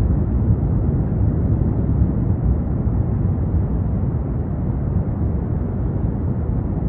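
Steady, deep rumble at the erupting Kīlauea volcano, with no distinct bangs or tones standing out.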